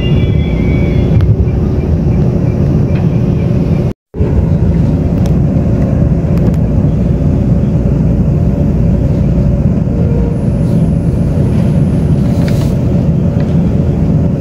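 Steady low rumble of a Taiwan Railways Tze-Chiang express train running, heard from inside the passenger car. The sound cuts out completely for a moment about four seconds in.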